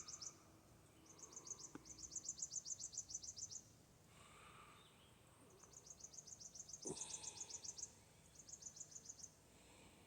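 Faint background songbird trilling: quick runs of high, evenly spaced chirps, about ten a second, repeated four times with short pauses between.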